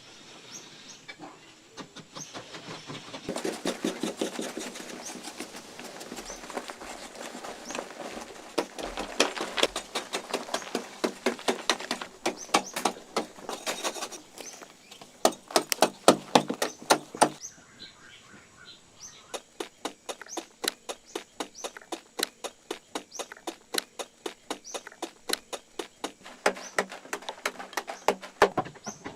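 Rapid, regular strikes or knocks, about two to three a second, in two long runs with a short lull between them.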